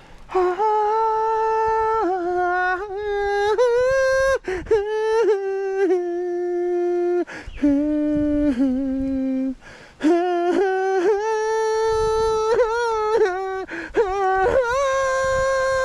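A slow wavering tune in a high voice, hummed or sung without words: long held notes stepping up and down in pitch, in phrases broken by short pauses.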